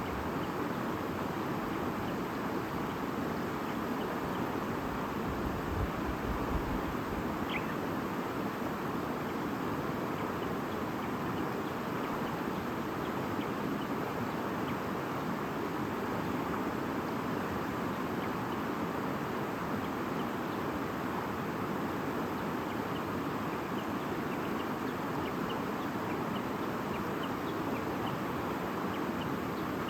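A stream babbling steadily, with faint short bird chirps here and there, one a little clearer about seven seconds in.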